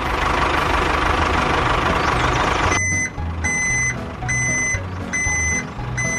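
A dense rushing noise for nearly three seconds that stops abruptly, then a reversing beeper on a mini toy vehicle: a steady high beep repeating about one and a half times a second over a low motor hum.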